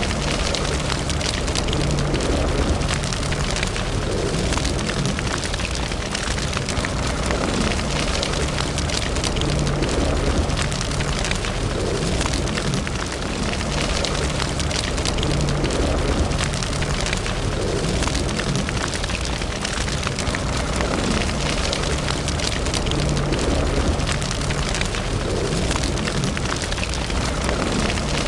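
Fire burning in a fireplace, crackling and popping steadily with many small snaps over a low, even rumble.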